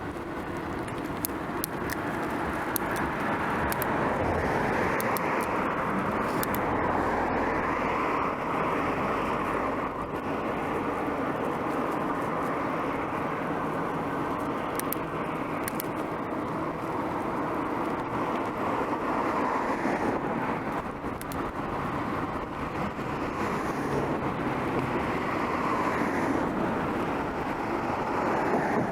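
Steady road noise heard while cycling: a rush of wind and tyres with car traffic passing, swelling and easing, and a few faint high clicks in the first half.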